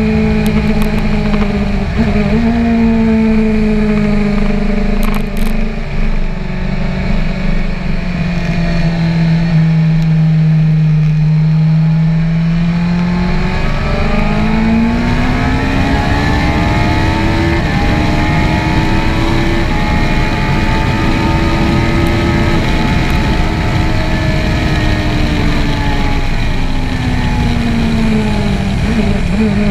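BMW S1000R's inline-four engine at speed on track, with wind rushing past the microphone. The revs step down twice in the first few seconds and settle at a low, steady pitch, then climb steeply about halfway through as the bike accelerates, hold high with small dips, and fall again near the end.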